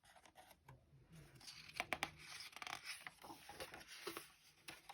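Faint paper rustling and small clicks as the pages of a picture book are handled and turned.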